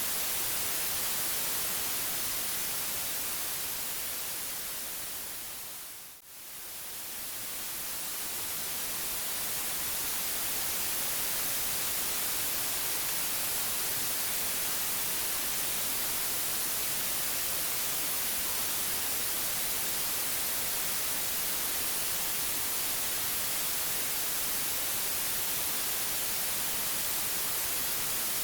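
Steady white noise, an even hiss strongest in the treble. About six seconds in it fades down sharply and swells back to full level over the next few seconds.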